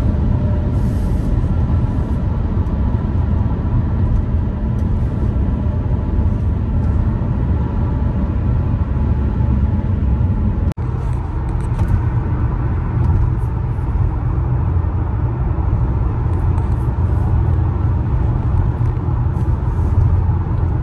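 Steady low rumble of engine and tyre noise inside a moving car's cabin at highway speed. The sound breaks off for an instant about eleven seconds in.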